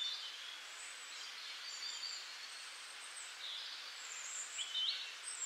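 Faint chirping of small birds: thin high calls, with a few quick rising chirps near the end.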